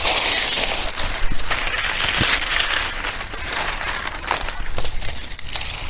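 Dry coconut palm leaves crackling and rustling, a dense crinkly hiss full of small sharp snaps, as they are handled and lit as a torch to start a cooking fire.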